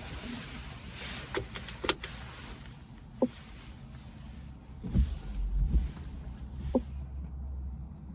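Car steering column being worked with the steering sounding normal, without its fault noise. Several short clicks and knocks are heard, with a low rumble about five seconds in.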